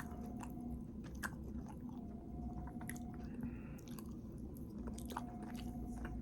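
A person chewing a mouthful of food close to the microphone, with a few small mouth clicks now and then.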